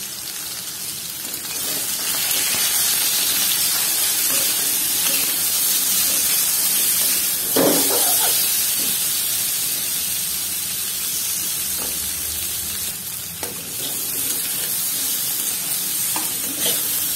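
Raw banana pieces sizzling as they fry in a little oil in a kadhai, a steady hiss that grows louder about two seconds in. A metal spatula scrapes and knocks against the pan as the pieces are turned, loudest about seven seconds in, with a few lighter clicks near the end.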